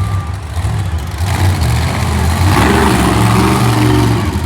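Monster truck engine running with a deep rumble, then revving up hard from about a second in, getting louder.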